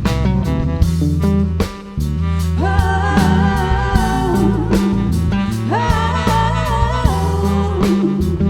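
A live rock band plays an instrumental section on drum kit, bass guitar and electric guitar. The band drops out briefly just under two seconds in, and then a held, wavering lead melody rises over it.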